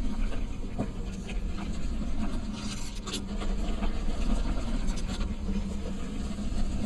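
Steady low rumble of a moving vehicle on the road in light rain, with a few sharp ticks scattered through it.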